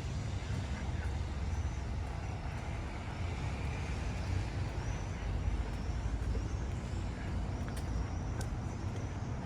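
City street ambience dominated by a steady low rumble of road traffic, with a few faint high chirps and two sharp clicks near the end.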